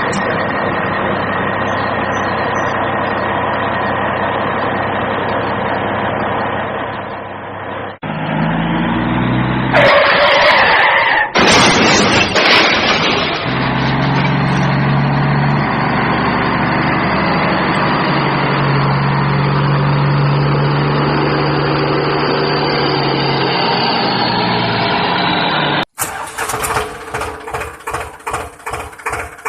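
Vehicle engine running, with abrupt changes about eight and eleven seconds in. Near the end it gives way to a regular pulsing, about two beats a second.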